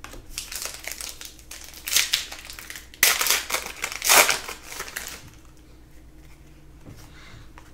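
A trading-card pack wrapper being crinkled and crumpled by hand in uneven bursts for about five seconds, loudest around three to four seconds in, then it stops.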